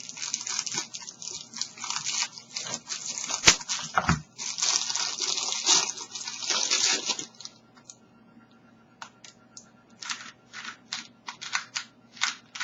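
Packaging crackling and rustling as a QJ 2x3x3 puzzle cube is unwrapped. After a short pause, the plastic cube clicks about twice a second as its layers are turned.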